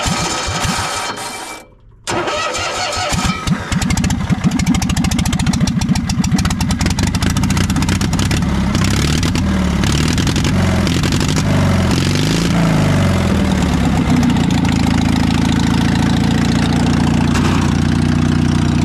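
Carbureted engine cold-started on the choke: cranked, a short pause, cranked again, and catches about four seconds in. It runs unevenly, its speed wavering up and down, then settles to a steady idle.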